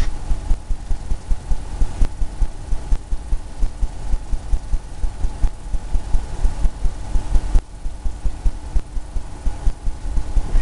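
A paintbrush dabbing rapidly against a canvas on an easel, coming through as a quick run of low thuds, about four to five a second, with a brief pause partway through.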